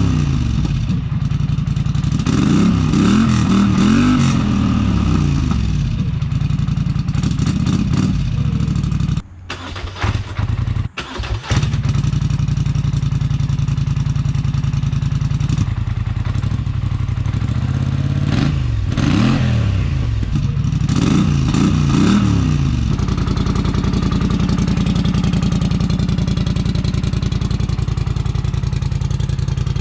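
Polaris Sportsman 850 ATV's parallel-twin engine idling through its exhaust, blipped up in several short revs that rise and fall, near the start and again about 18 to 23 seconds in. The running breaks off briefly about nine seconds in.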